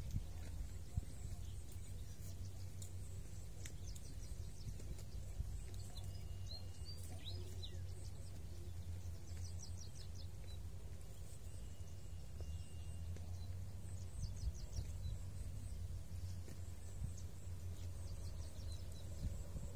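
Small birds calling now and then, in short clusters of quick high chirps several times, over a steady low rumble.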